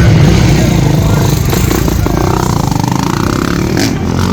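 Motocross bike engine revving, climbing in pitch for about a second and a half past the middle, over a steady low rumble.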